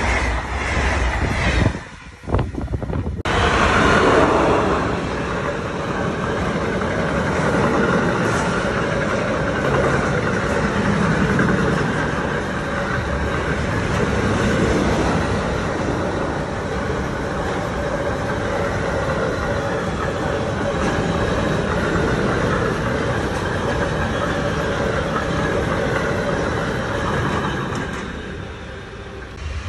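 A freight train of double-deck car-transporter wagons rolling past at a level crossing: a continuous, even rumble and rattle of wheels on rail that fades near the end. For the first two seconds an ICE high-speed train is passing, before a sudden cut.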